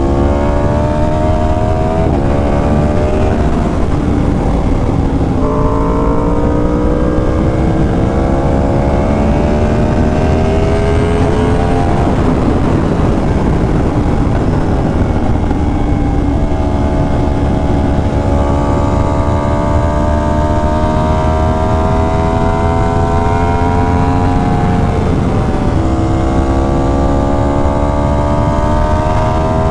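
Yamaha R1's crossplane inline-four pulling hard through the gears. The engine note climbs steadily and drops sharply at each upshift, about two, five and a half, and twenty-six seconds in.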